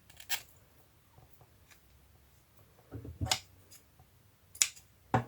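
A few short, sharp clicks and snips, about four spread out with quiet between them, from paper and fabric craft pieces being handled and cut; the last, near the end, is the loudest and has a dull thud in it.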